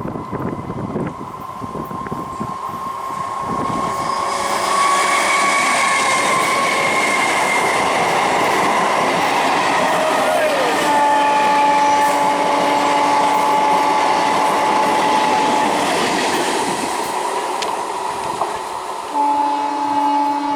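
Old conventional EMU electric train passing at speed, its wheels clattering over the rail joints under a pitched running whine that drops in pitch about halfway through. Its horn sounds one long held blast just after that, and a shorter blast near the end.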